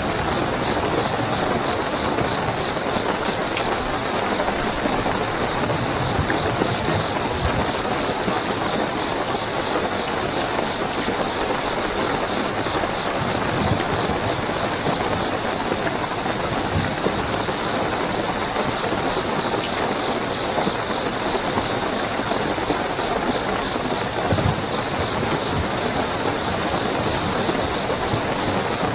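Steady heavy rainfall with crickets chirping in a continuous high-pitched trill.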